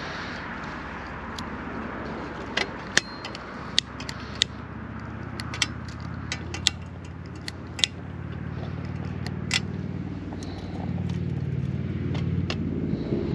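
A steady low engine hum that grows louder near the end, with about a dozen sharp, irregular clicks and clinks over it.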